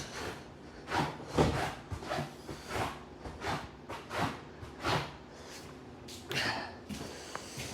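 Rhythmic noisy breathing, about one and a half short breaths a second.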